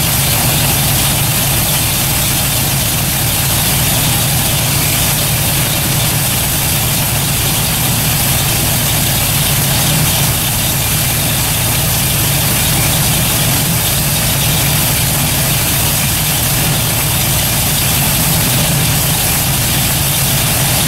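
Ford 429 Cobra Jet big-block V8 idling steadily and evenly, freshly reassembled with a new intake and not yet warmed up.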